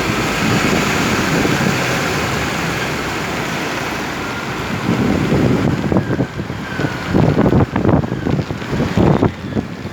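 Heavy rain pouring down in a steady hiss, with wind gusts buffeting the microphone in irregular low rumbles from about halfway through.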